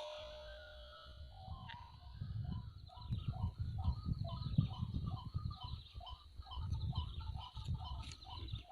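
White-breasted waterhen calling: a fast, even run of short two-note phrases repeated over and over, starting about a second and a half in, over a low uneven rumble.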